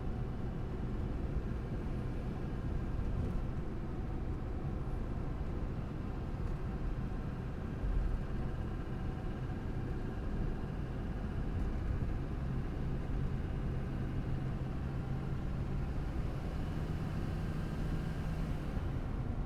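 Duramax 6.6-litre turbo-diesel V8 of a 2004 GMC Sierra 2500 HD pickup running while the truck is driven: a steady low engine and road rumble with a faint hum that shifts a little in pitch. There is one brief low thump about eight seconds in.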